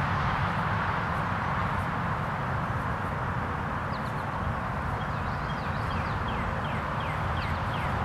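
A bird calling in quick runs of short, high, falling chirps, starting about halfway through and coming faster near the end, over a steady outdoor background rumble and hiss.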